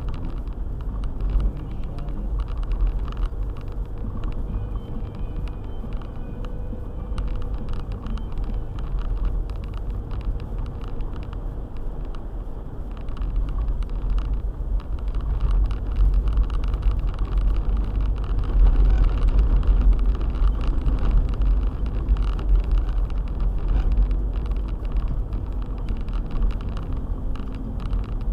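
All-wheel-drive car being driven: a steady low rumble of engine and tyres, with many small ticks and knocks throughout. The rumble grows louder for several seconds from about halfway through.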